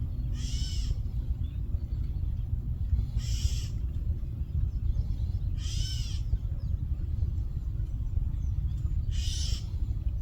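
Adult bird squawking harshly in alarm at black snakes raiding its nest, four loud calls spaced a few seconds apart. A steady low rumble runs underneath.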